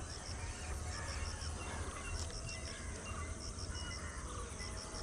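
A bird repeating a quick run of four or five short, high notes about once a second, with fainter bird calls and a low rumble underneath.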